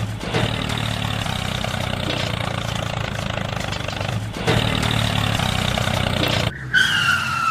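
Steady engine-like running sound of a handmade mini tractor, briefly interrupted about halfway through, then a short falling whistle near the end.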